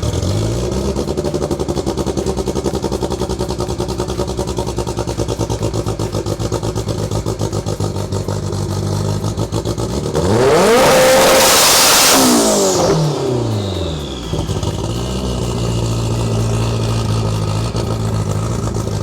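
Drag-race Honda Civic engine idling with an uneven, pulsing beat. About ten seconds in it is revved once hard: the pitch climbs to a loud peak for a couple of seconds, then falls back to idle.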